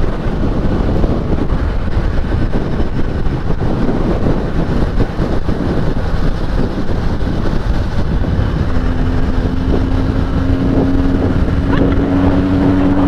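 Benelli 302S motorcycle's parallel-twin engine and stock exhaust running on the move, under heavy wind rush over the microphone. About two-thirds of the way in, a clear steady engine note comes through and climbs slowly in pitch as the bike pulls.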